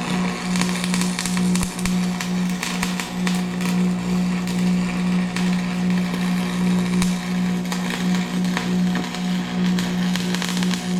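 Electric arc welding: the arc crackles and spits irregularly over a steady, slightly pulsing low machine hum.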